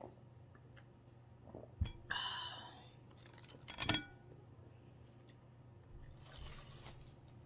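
Eating at a table: scattered clicks of utensils and food, a short rustling scrape about two seconds in, and a sharp clack of a utensil against a dish about four seconds in, with soft chewing and crunching near the end.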